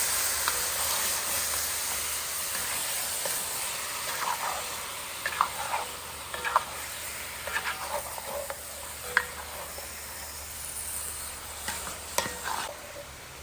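Chicken gizzards sizzling in curry paste in a hot pot, a steady hiss that slowly gets quieter, with scattered scrapes and knocks of a spoon stirring them.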